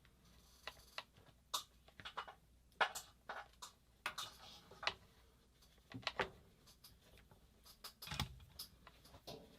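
Irregular light clicks and taps of small tools and parts being handled on a workbench, with a heavier knock about eight seconds in.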